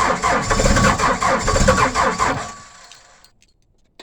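Engine of a machine running just after a cold start in freezing weather, a dense rapid clatter, until it falls away to near silence about two and a half seconds in.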